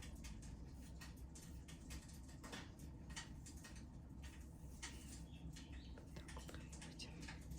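Faint, irregular crackling and soft wet clicking: a wood fire crackling while oiled hands rub and knead bare feet, over a steady low hum.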